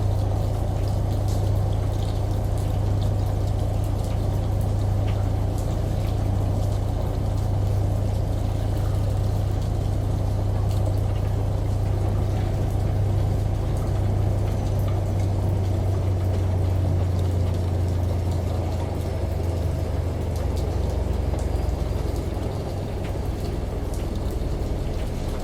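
Washing machine running: a steady low hum under the sound of running water. The hum fades away about three-quarters of the way through, leaving a steady wash of water noise.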